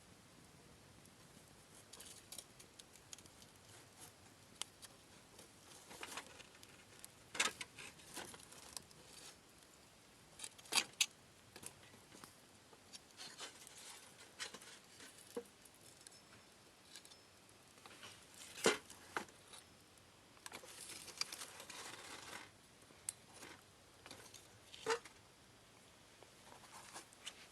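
Wood campfire crackling, with scattered sharp pops at irregular intervals, a few of them much louder than the rest.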